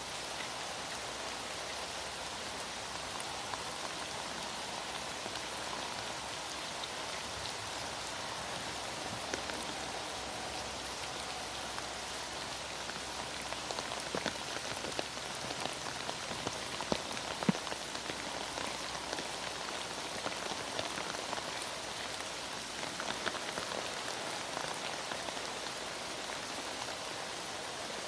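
Heavy rain falling steadily, a dense patter of drops, with a few sharper, louder ticks about halfway through.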